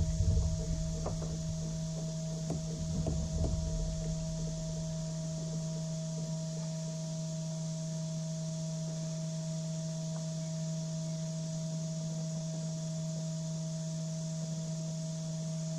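A steady electrical hum holding several fixed pitches, with a few low knocks and handling bumps in the first four seconds.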